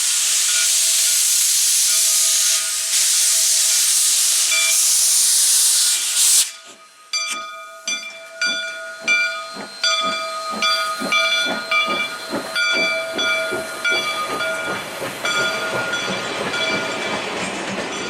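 Steam locomotive: a long loud hiss of escaping steam that cuts off about six seconds in, followed by steady exhaust chuffs about twice a second as it works along.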